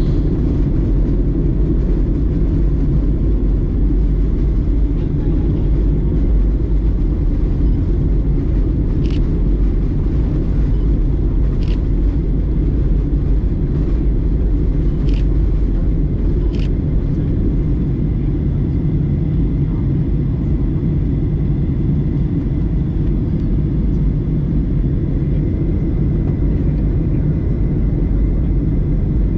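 Steady cabin rumble of a Boeing 737-900ER in flight, engine and airflow noise heard from a passenger seat, with a few faint clicks in the middle.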